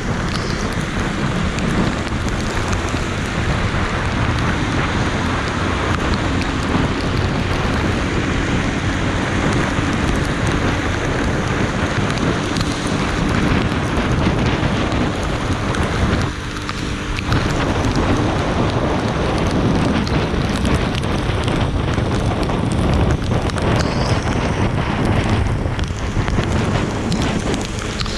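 Heavy rain pouring steadily, with wind buffeting the microphone; it eases briefly a little over halfway through.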